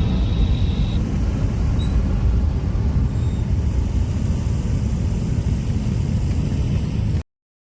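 Airbus A330 airliner's jet engines rumbling steadily, heaviest in the low end, with a thin high whine that stops about a second in. The sound cuts off abruptly near the end.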